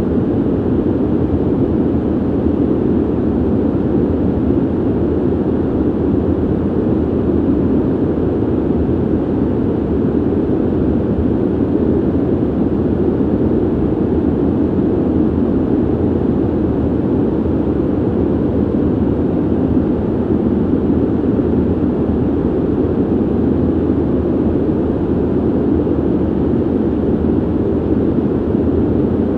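Steady ventilation noise: an even, low rushing hiss of moving air, heaviest in the low-middle range with little top end, unchanging throughout.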